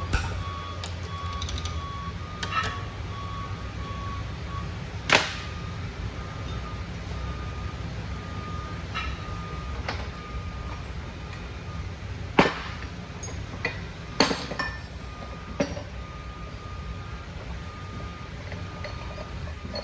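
Metal parts and tools clinking and knocking on a heavy truck transmission being assembled, a handful of sharp strikes over a steady low hum. A vehicle's reversing beeper sounds in the background, about two beeps a second.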